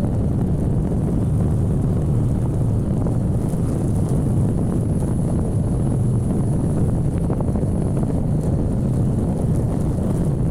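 Motorcycle on the move: its engine running steadily beneath a constant low rush of wind on the microphone.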